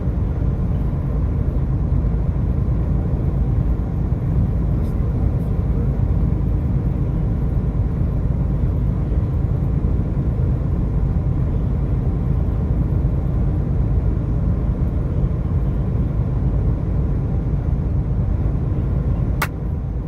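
Steady low rumble of a car in motion, engine and tyres on the road, with a single sharp click near the end.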